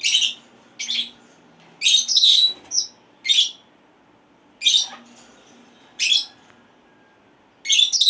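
Senegal parrots giving short, high-pitched calls again and again, roughly one a second, some in quick pairs.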